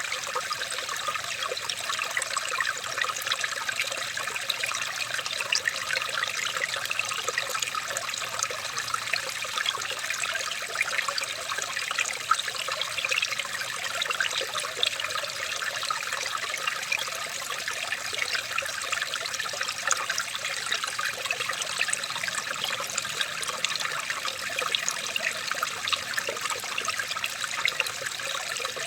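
Running water trickling and splashing steadily over stones, a small stream with a constant bubbling rush.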